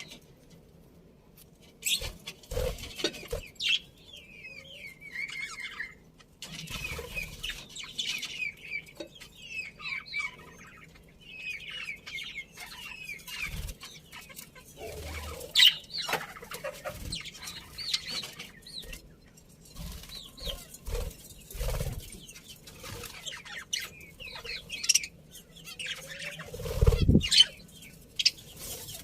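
Budgies chirping and twittering in scattered bursts, with wings fluttering and sharp knocks and taps among them. A single louder, lower call comes near the end.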